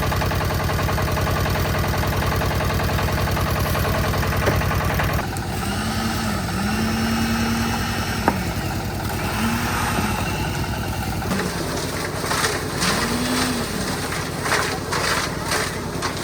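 Engine-driven concrete mixer running steadily. About five seconds in the sound changes: a tone swells up and down in pitch several times, and from about eleven seconds in it is joined by a run of short knocks and scrapes.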